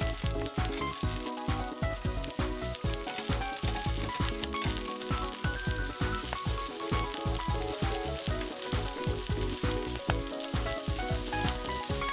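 Australian beef chuck steak sizzling as it cooks over a campfire. Background music with short melodic notes and a steady low beat plays over it.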